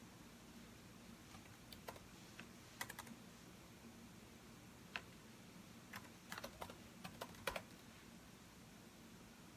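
Typing on a computer keyboard: scattered keystrokes in short, irregular clusters with pauses between them.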